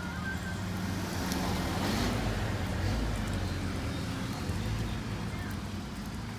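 Road traffic: a steady low rumble of engines, with a vehicle passing and swelling loudest about two seconds in.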